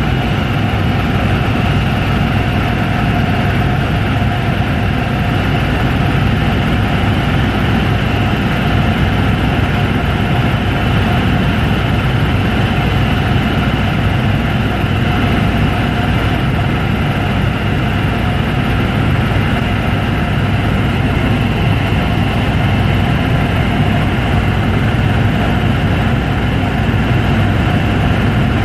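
Helicopter engine and rotor running steadily: a loud, even drone with several steady tones over a low rumble.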